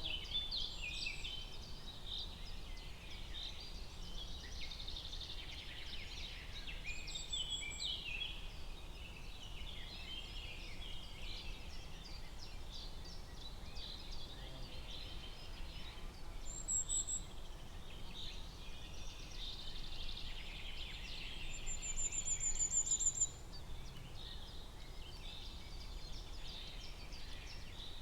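Forest ambience of many small birds chirping and chattering together without a break. A short, high, rapid trill sounds about 17 seconds in, and a louder one about 22 seconds in.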